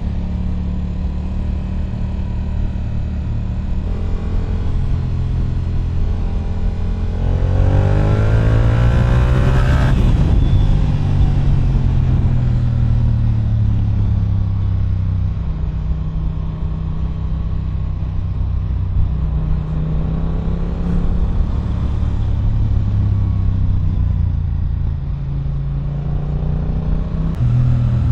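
Yamaha R7's CP2 parallel-twin engine with an Akrapovič exhaust, running at low speed, then revving up from about seven seconds in to a peak around ten seconds before settling back to steady running.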